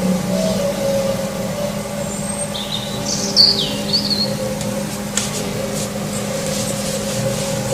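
A steady low droning hum made of several held tones, an unexplained sound that the recorder calls weird. A bird chirps a few times around three to four seconds in.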